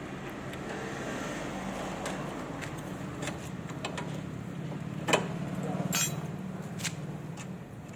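Workshop tools knocking and clinking on metal during suspension work on a car, a few sharp strikes with the loudest about five seconds in, over a low steady hum.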